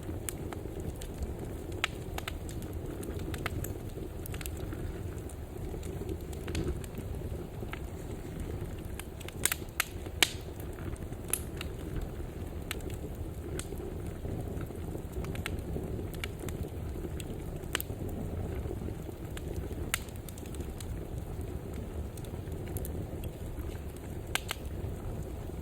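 Fire burning in a fireplace: a steady low rumble of the flames with scattered sharp crackles and pops, a few louder pops about ten seconds in.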